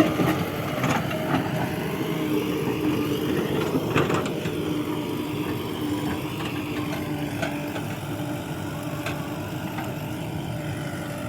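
Heavy diesel engine running steadily at low revs, with a few short knocks.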